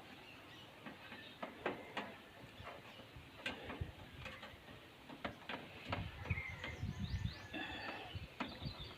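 Faint scattered clicks and light knocks of a wire and small machine parts being handled. Birds chirp in the background in the second half.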